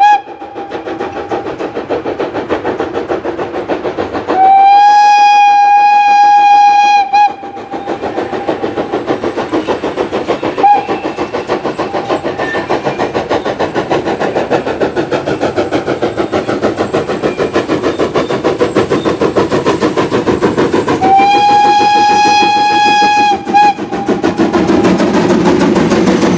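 Baden class VI c steam locomotive 75 1118 working a train: fast, even exhaust chuffing throughout, broken by its steam whistle, a steady blast of a couple of seconds, a short toot, and later another long blast followed by a quick toot.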